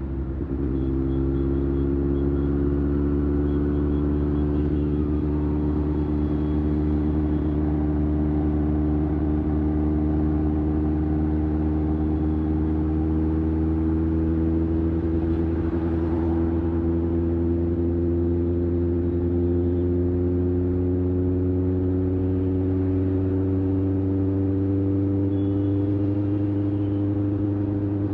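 Kawasaki ZX-6R's 636 cc inline-four engine running steadily at highway cruise, its pitch rising slowly as the bike gently gains speed.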